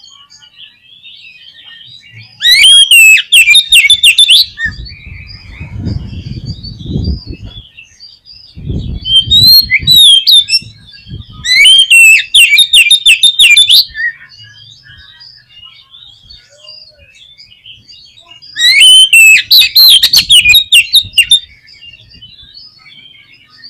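Oriental magpie-robin (kacer) singing: four loud spells of fast, varied whistles and trills, with softer twittering between them. Two spells of low rustling noise come in the middle.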